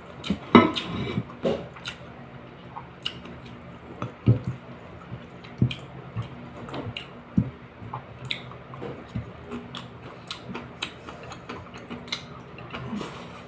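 Close-up mouth sounds of a person eating fish and rice by hand: irregular wet chewing and lip smacks, busiest in the first couple of seconds, over a faint steady hum.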